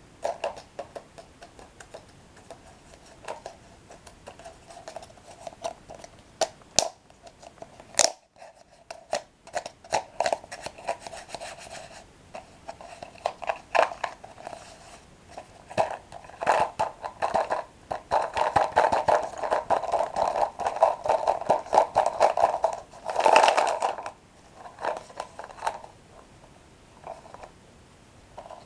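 Close-up crunching and chewing of toasted bread sticks dipped in cocoa cream, with scraping and many sharp clicks. The sounds grow denser and louder for several seconds past the middle.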